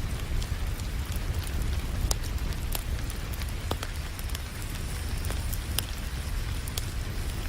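Wood fire crackling with scattered sharp pops over a steady hiss of rain and a low rumble.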